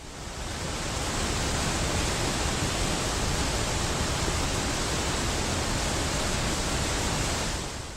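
Waterfall at very high flow: a steady, dense rush of falling water with a deep rumble underneath, fading in over the first second and fading out at the end.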